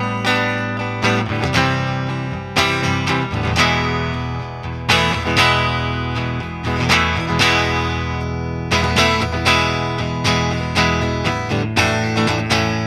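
Electric guitar, a Fender Stratocaster, played through a Line 6 Helix amp-and-cab model: chords and notes are picked or strummed about once a second, each one ringing out.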